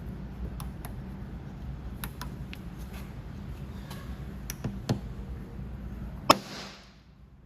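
Small clicks and taps from paintless dent repair work over a steady low hum, with one sharp snap about six seconds in, after which the hum cuts out.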